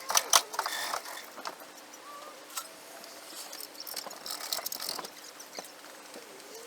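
A few sharp knocks in the first half-second, then scattered light clicks and taps from hands-on work with metal parts and tools, over a faint steady hum. Faint bird calls are heard in the background.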